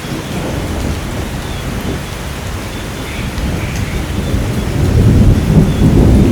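Thunder rumbling over steady heavy rain; the rumble breaks in at the start and swells louder about five seconds in.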